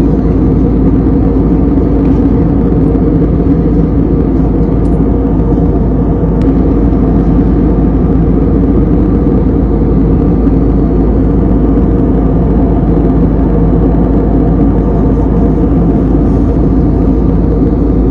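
Airliner cabin noise in flight: a loud, steady low drone of the engines and rushing air.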